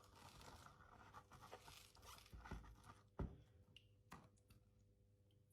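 Near silence with faint handling noises and a few soft knocks, the sharpest about three seconds in, as gold and black sand are sucked up from a gold pan with a snuffer bottle.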